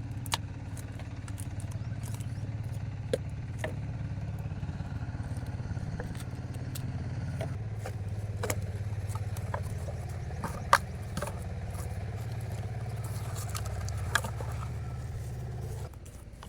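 A small engine runs steadily, with scattered clicks and rattles over it. The engine sound drops off just before the end.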